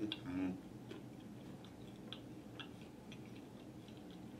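A person chewing food with the mouth closed, close to the microphone: faint, scattered wet clicks from the mouth, with a brief hum near the start.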